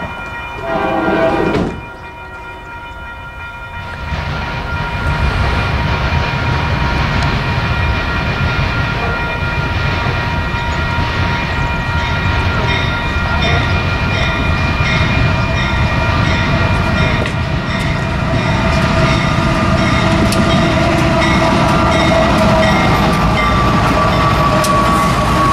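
Union Pacific freight train's GE diesel locomotives approaching and passing, the engine and rail rumble building steadily from about four seconds in. From about halfway a repeated high ringing joins in.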